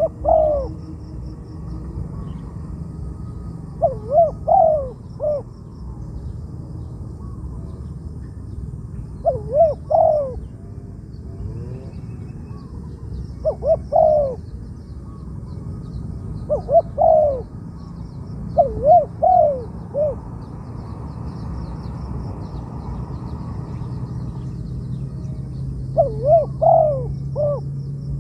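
Spotted dove cooing: seven short phrases of a few sliding coo notes, each about a second long, repeated every few seconds. A steady low hum runs underneath and grows stronger near the end.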